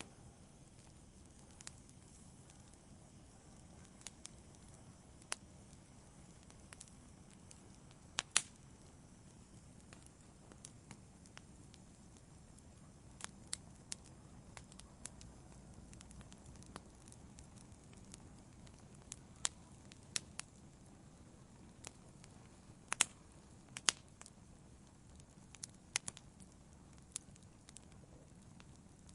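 Wood fire burning in a fireplace: a low, steady rumble with scattered sharp crackles and pops, a few of them louder than the rest.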